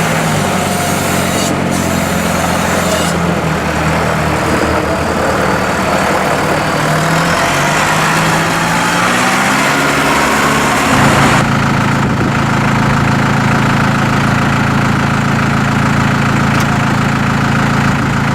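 The John Deere 5083E tractor's four-cylinder turbocharged diesel engine is running, its pitch rising and falling through the first half, then holding steady from a little past halfway.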